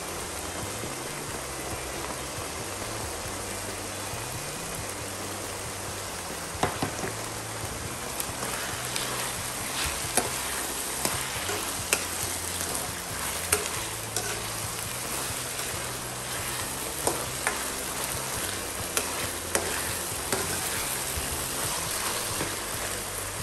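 Flaked milkfish, potato and carrot filling sizzling steadily in a nonstick wok while a metal spoon stirs it, with scattered clicks and scrapes of the spoon against the pan.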